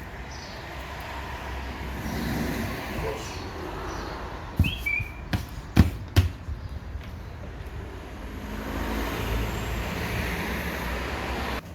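Steady low rumble of background noise, like street traffic, with several sharp knocks bunched around the middle and a single brief high chirp among them.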